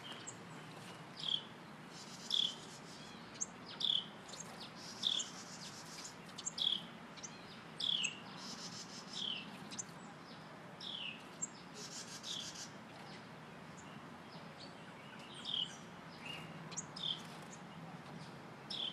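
Small songbirds chirping: short calls that fall in pitch come about once a second, with buzzier chirps in between.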